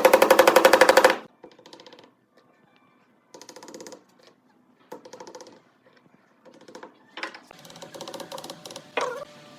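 Woodworking power tool running in short bursts with a fast, even rattling pulse. The loudest burst stops about a second in, and several shorter, quieter bursts follow.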